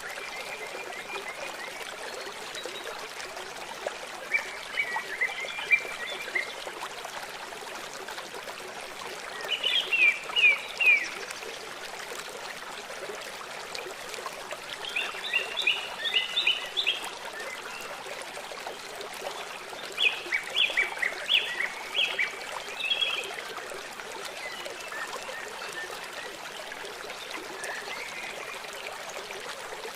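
Steady rushing of a stream, with a songbird singing short phrases of quick, rapidly repeated chirps every few seconds.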